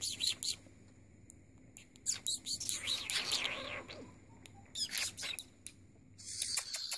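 Cockatiel chattering in quick high chirps and clicks: its mumbled attempts at talking, with a busier run of chirps about two to four seconds in.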